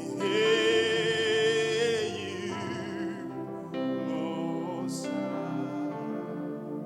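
Worship song: a singing voice holds one long note with vibrato for about two seconds, then the music continues more softly with sustained accompaniment.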